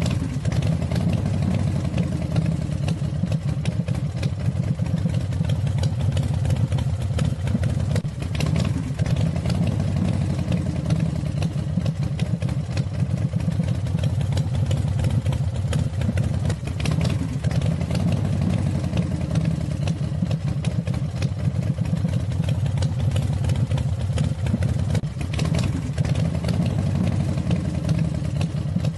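Homemade model V6 engine running steadily, a fast even clatter over a low hum.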